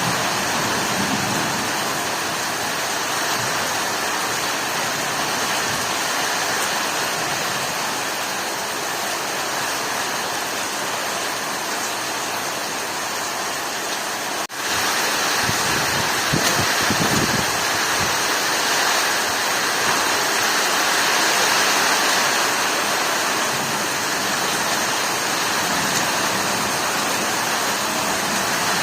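Heavy storm rain pouring down steadily, a dense hiss of water, with a brief dropout about halfway through.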